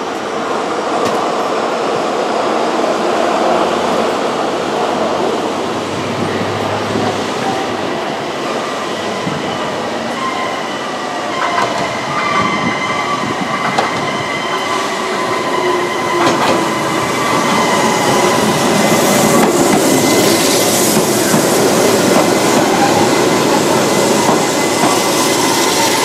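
Keihan 600 series train approaching and pulling in, its wheels clicking over rail joints and growing louder as it nears. A steady high-pitched squeal from the running gear sets in about ten seconds in and carries on as it slows.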